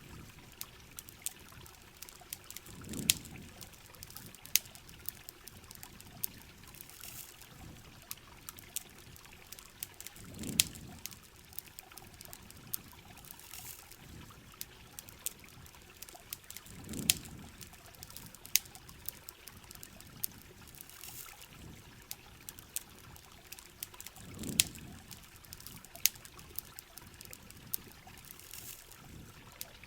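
Steady rain with trickling, pouring water, and scattered sharp campfire crackles and pops. A low swell of sound comes back about every seven seconds.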